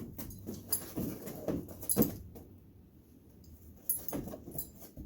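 A dog moving about: scattered light knocks and shuffles with collar tags jingling, going quiet for about a second and a half in the middle before the jingling and shuffling pick up again.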